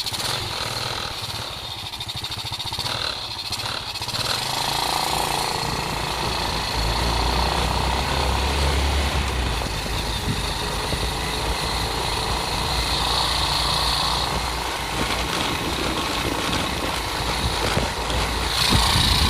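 Motorcycle engine running steadily while riding, with a continuous rushing noise over it.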